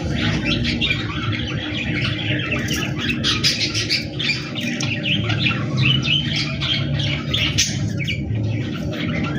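Budgerigars chattering: a dense, unbroken stream of short squawks, chirps and warbles over a steady low hum.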